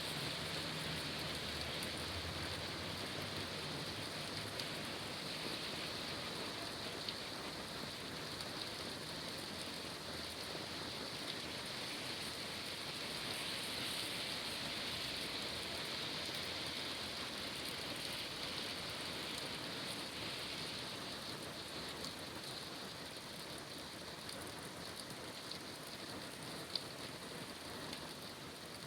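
Steady rain falling on city surfaces: a dense, even hiss with fine drop ticks throughout and one sharper tick near the end.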